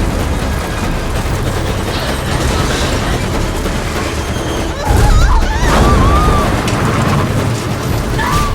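Car chase sound effects: a heavy steady rumble, then a loud boom about five seconds in, followed by a wavering high squeal.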